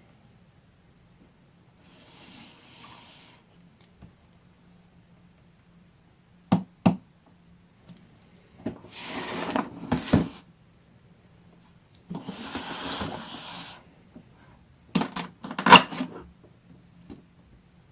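Handling noises from unpacking a fan heater: stretches of rustling packaging broken by sharp knocks and taps. The loudest knocks come in a quick cluster near the end.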